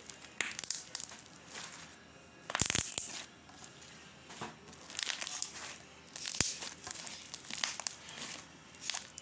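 Slime being handled for ASMR, giving short, irregular noisy bursts, the loudest about two and a half seconds in.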